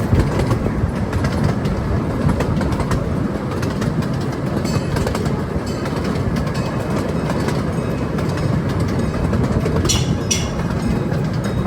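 Train cars rolling past steadily, a continuous rumble with wheels clicking over the rail joints, and a brief high squeal about ten seconds in.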